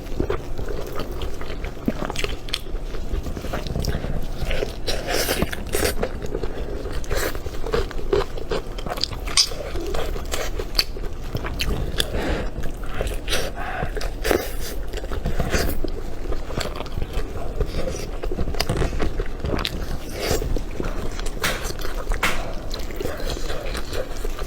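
A person biting and chewing food close to the microphone, with irregular sharp clicks of the mouth and teeth all through.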